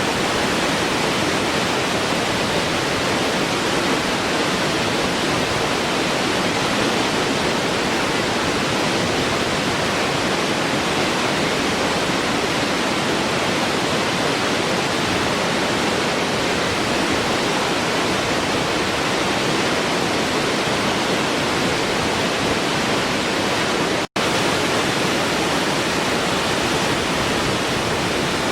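Waterfall rushing, a steady, even roar of falling water, with a split-second gap in the sound well past the middle.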